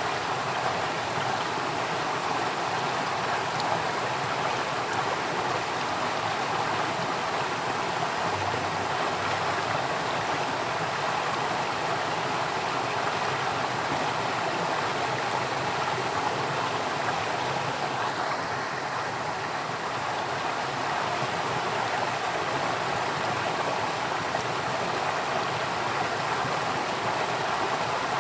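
Flowing water running steadily, an even rushing sound with no breaks.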